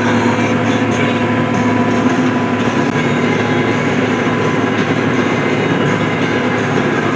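Tractor engine running steadily while pulling a hay baler through a windrow, the baler's machinery working continuously behind it.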